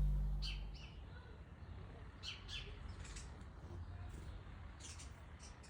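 Wild birds chirping in short, scattered calls, repeated irregularly, after guitar music fades out in the first second.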